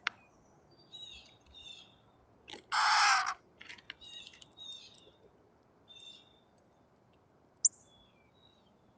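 A baby bird gives one loud, harsh screech lasting under a second, about a third of the way in, over faint chirping from other birds. A single sharp click comes near the end.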